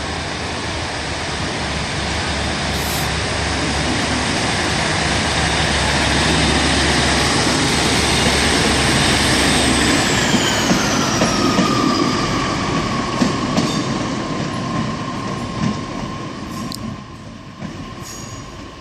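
Diesel train pulling out and passing close by: engine and wheel noise build to a peak about nine seconds in. Then a high whine drops in pitch as it moves away and fades.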